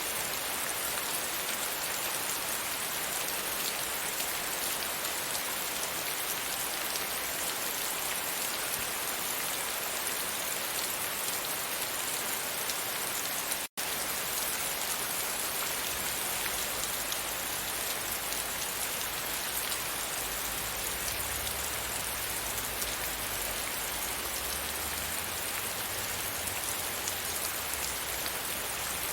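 Steady rain falling against a window, an even hiss of drops. It cuts out for an instant about halfway through, and a faint low rumble runs under it in the second half.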